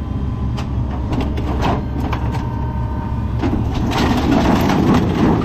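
A steady low engine hum under scattered clicks, with heavier crunching and clattering in the second half.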